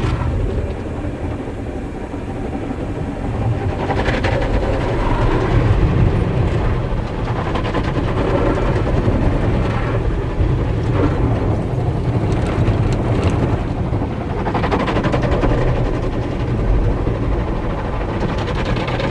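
Automatic tunnel car wash heard from inside the car: water spraying and wash equipment working against the body over a steady low rumble, with occasional slaps on the car.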